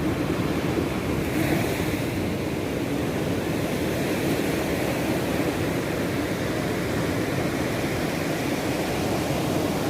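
Sea surf washing onto the shore: a steady rush with a louder hissing wash about a second and a half in.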